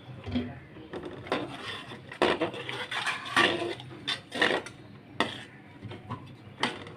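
Spatula scraping and knocking against a cooking pot as beef curry, with water just added, is stirred in irregular strokes.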